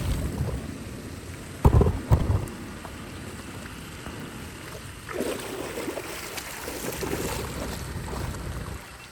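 Water rushing, with a low rumble of wind on the microphone, broken by two heavy thumps about two seconds in and scattered splashing and knocking later on.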